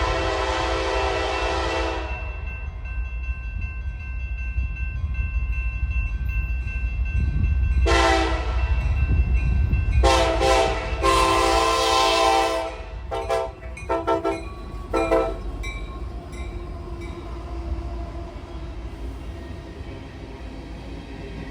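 Diesel freight locomotive's air horn sounding. One blast ends about two seconds in; after a pause come a long blast, a shorter one and another long one, then a few quick short toots. The low rumble of the passing train runs underneath.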